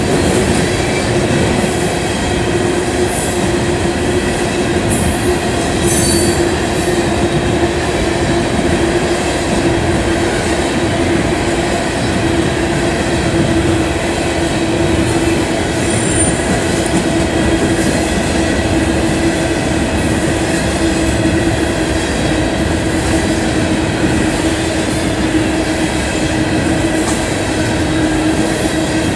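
Norfolk Southern freight train of hopper cars rolling steadily past, a continuous rumble of steel wheels on rail with a steady tone held over it.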